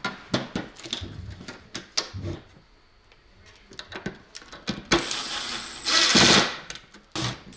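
Hand tools working on electrical cable: scattered clicks and knocks, then from about five seconds in, short bursts of harsh rasping noise, the loudest a little after six seconds.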